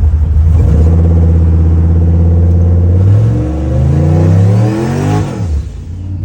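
Turbocharged LS V8 of a 1962 GMC 2500 pickup pulling hard: a steady low engine note, then the revs climb for about two seconds and drop steeply as the throttle is lifted near the end, with a hiss at the peak.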